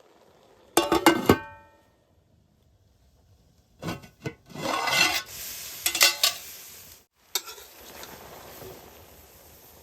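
Metal cookware clanks with a short ringing about a second in. From about four seconds a spoon scrapes and stirs in a pan, followed by a steady sizzle of food frying.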